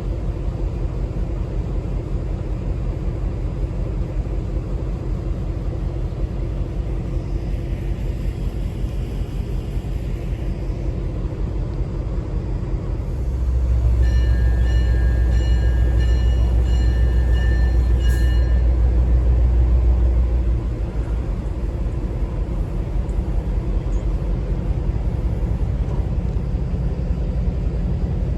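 Conway Scenic Railroad train running, a steady low rumble that swells louder for about seven seconds midway. For a few seconds during the loud part, high broken tones sound over it.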